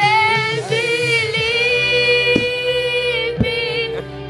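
A woman singing, holding one long steady note for about three seconds, with a few short knocks behind it.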